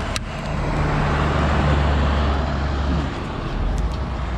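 Bucket truck's engine and hydraulics running, a steady low hum that swells for about three seconds and then eases back. A sharp click comes just after the start.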